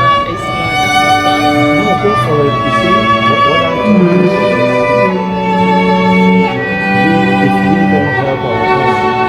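Live string players performing: a violin carrying a slow melody of held notes over a cello-like bass line, the notes changing every second or so.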